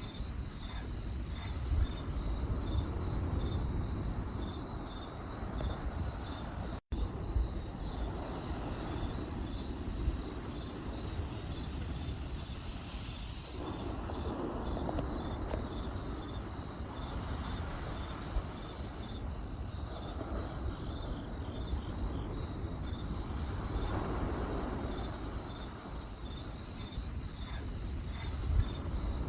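Crickets chirping in a steady, fast pulse, over the low rumble and occasional pops and crackles of a burning campfire. The sound cuts out for a split second about seven seconds in.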